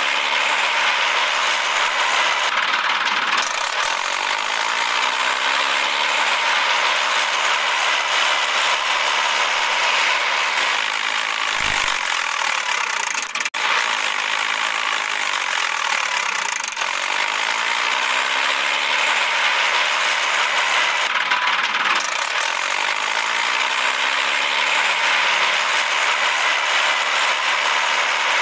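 Toy vehicle's small motor and plastic gears running continuously with a rapid ratcheting clatter.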